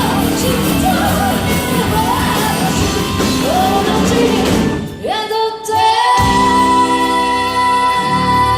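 Live band playing with a singer, with some shouting. About five seconds in, the full band sound briefly drops away, and a held chord with long sustained notes comes in.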